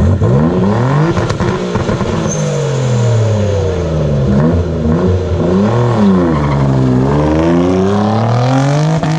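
Nissan Z car's engine revved repeatedly from idle through a loud exhaust, its pitch climbing and falling several times, then settling back to idle near the end.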